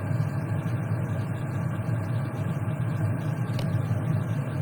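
A steady low mechanical hum with a faint even noise over it.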